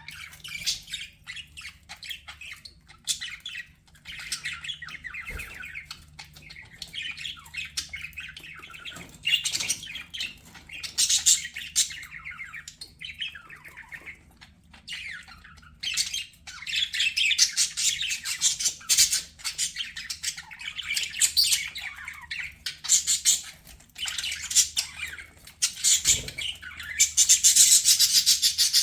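Budgerigars chattering and warbling: a dense run of rapid chirps, squawks and twittering that never stops, loudest near the end.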